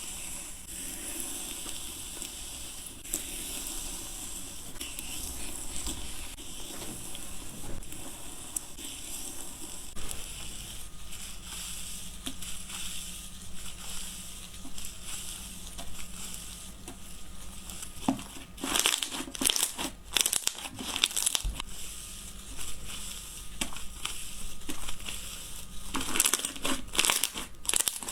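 Slime being squeezed and pressed by hand, giving a steady dense crackle of small clicks, with louder clusters of sharp crackles about two-thirds through and again near the end.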